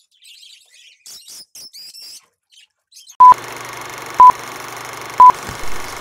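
Caged birds chirping in short, high twitters for about three seconds. Then a film-countdown leader takes over: a steady projector-like hiss and hum with three short, loud beeps a second apart, the loudest sounds here.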